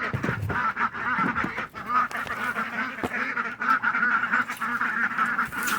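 Domestic ducks quacking continuously, many calls overlapping in a steady din, with a few sharp knocks.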